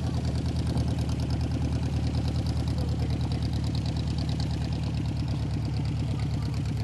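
An engine idling steadily, with an even pulsing beat.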